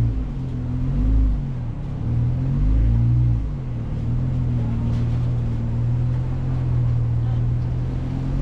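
Jeep Wrangler's engine crawling over a rocky off-road trail, revving up and dropping back several times in the first few seconds, then running at a steady low speed.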